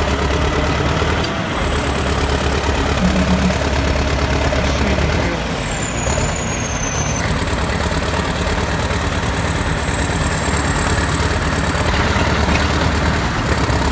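Heavy diesel engine of a bulldozer running steadily at work, with a thin high whine over it that drops in pitch for a couple of seconds around the middle.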